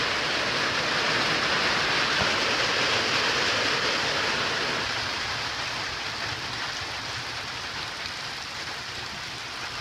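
Rain falling on a tin roof, a dense steady hiss that gradually grows lighter from about halfway through.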